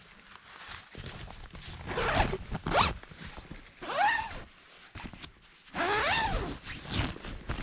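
A zipper pulled back and forth in about four separate strokes, each rising and then falling in pitch.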